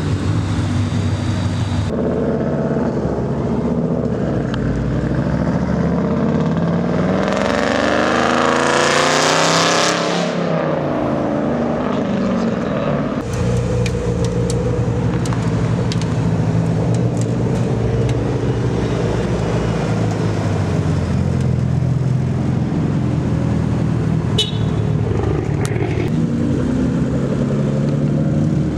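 Car engines running and rumbling as cars pull out, with one car accelerating hard about seven seconds in, its engine note climbing steeply for about three seconds before dropping off. A few brief sharp pops come late on.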